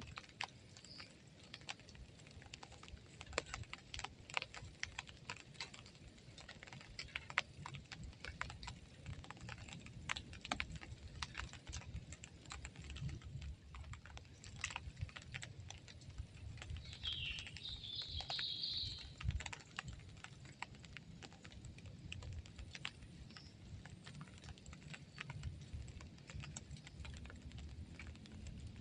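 Raindrops dripping and tapping irregularly on a camp shelter, a scatter of light ticks over a faint low background, with a brief high squeak about two-thirds of the way through.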